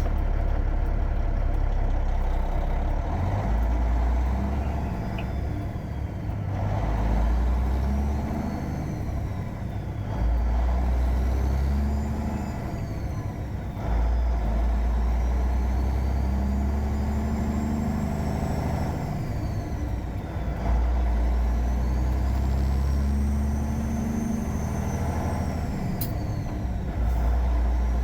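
Caterpillar 3406E diesel in a 1999 Freightliner Classic running under way, with a deep steady drone that eases off and comes back on several times. A faint high whine glides up and down above it.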